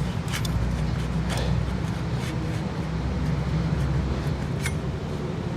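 A few sparse, light metallic clicks and knocks from hand tools and fasteners as bolts are worked out of the motorcycle's exhaust fittings, over a steady low background hum.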